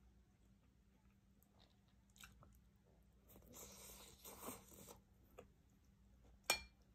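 A person biting and chewing food with faint crunching, loudest a little past halfway through, followed by a single sharp click near the end.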